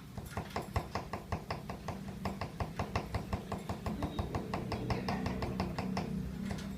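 Lovebird 'ngekek' call: a long series of rapid, evenly spaced chirps, about seven a second, keeping on for about six seconds before it stops.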